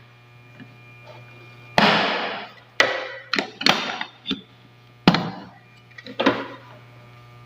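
Hard plastic parts of a vacuum cleaner being handled and set down: a string of about seven clunks and knocks, each with a short ringing tail, over a low steady hum.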